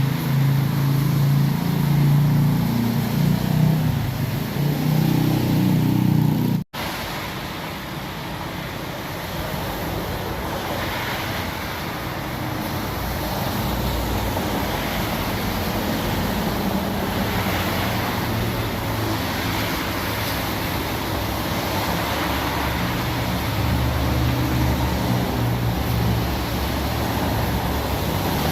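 Steady hiss of heavy rain mixed with the low hum of a vehicle engine. About seven seconds in the sound breaks off for an instant, and the rain goes on with a weaker low rumble under it.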